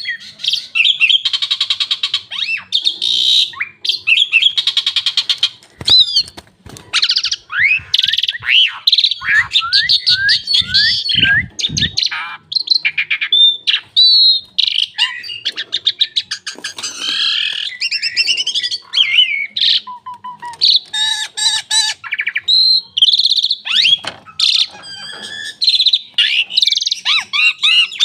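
Javan pied starling (jalak suren) singing a long, varied song of gliding whistles, rapid rattling trills and chattering notes, broken by brief pauses.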